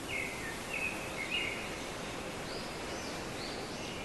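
Wild birds calling over a steady outdoor hiss: a few short notes in the first second and a half, then a run of higher, arching chirps.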